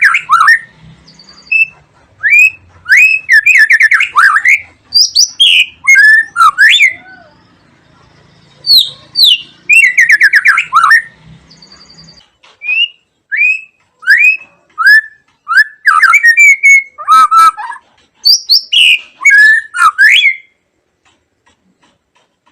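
White-rumped shama (murai batu) singing: loud, varied whistled phrases of slurred notes and fast trills, one after another, stopping shortly before the end.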